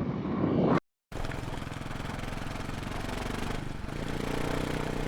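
Motorcycle engine idling steadily with an even, fast pulse. It comes in after an abrupt edit cut about a second in, which ends a louder sound.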